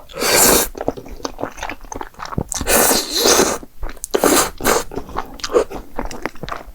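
Close-miked eating: a person biting and chewing food, with wet mouth clicks and three louder noisy bursts, near the start, in the middle and about two-thirds through.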